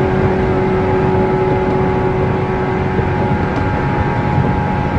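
JR West 117 series electric train running at speed, heard from inside the car: loud traction motor hum with steady tones over the rumble of wheels on rail. The strongest tone fades about two seconds in while the rumble carries on.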